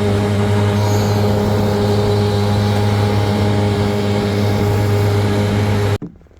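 Two-stroke outboard engine on a jet jon boat running steadily at constant speed, cutting off abruptly near the end.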